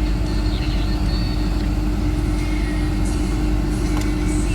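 Caterpillar excavator's diesel engine running steadily: an even low rumble with a constant hum.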